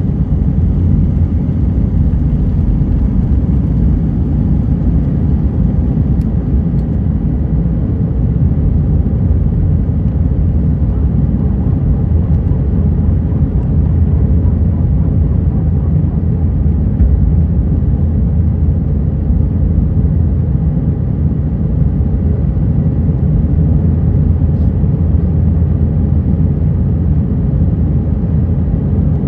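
Steady, loud rumble of an Airbus A320 jet airliner with its engines running, heard inside the passenger cabin. The noise is deep and even, without clear rises or falls.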